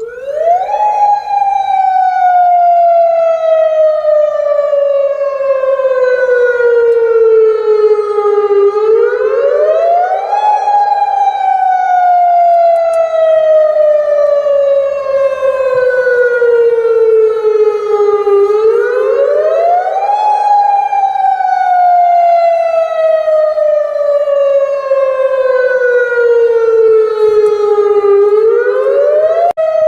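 Alarm siren with a buzzy tone, sweeping quickly up in pitch and then slowly down, about every nine to ten seconds.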